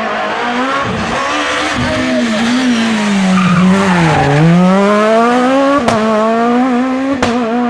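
A Super 1600 rally car's high-revving 1.6-litre four-cylinder engine at full throttle: the revs fall to a low point about four seconds in as the car slows, then climb steadily as it accelerates away. Two sharp cracks near six and seven seconds come at the gear changes.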